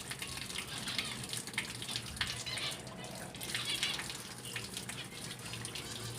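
Water running steadily from a tap and splashing as kulasiman (purslane) plants are rinsed under it by hand.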